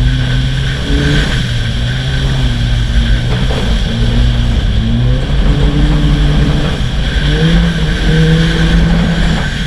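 A rally car's engine pulling hard through a rallycross run, its pitch climbing and dropping several times as the driver accelerates, lifts and changes gear.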